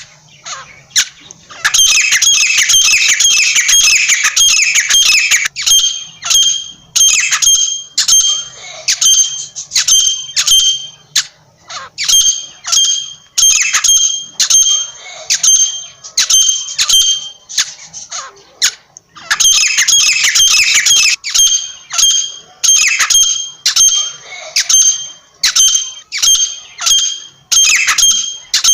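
Francolin (teetar) calling over and over in loud, shrill, high-pitched notes: fast runs of calls a couple of seconds in and again about two-thirds through, with single sharp calls spaced between them.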